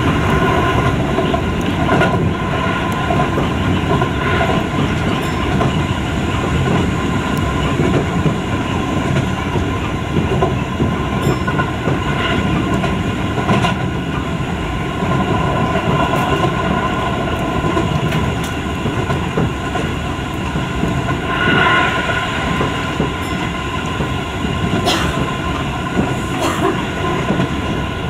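Running noise heard inside a Keio 5000-series electric commuter car at steady speed: a constant rumble of wheels on rail with a steady motor hum, and a few sharp clacks over rail joints.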